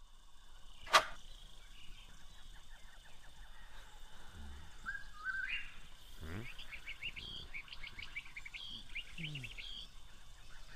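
Birds chirping in quick clusters of high notes over a soft steady background, with one sharp click about a second in.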